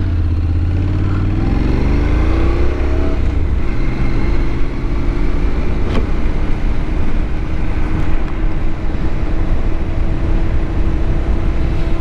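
Honda NC-series parallel-twin motorcycle engine pulling away, its note rising over the first three seconds, then running steadily at cruising speed with wind rushing over the helmet-mounted microphone.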